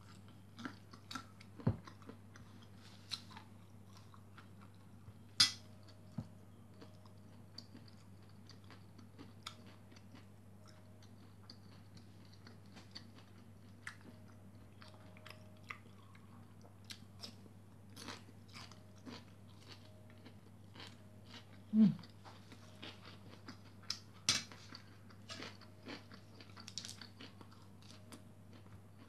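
Close-up chewing and crunching of fried rice with fried peanuts, with scattered sharp clicks of a fork and spoon against a plate. A low steady hum runs underneath.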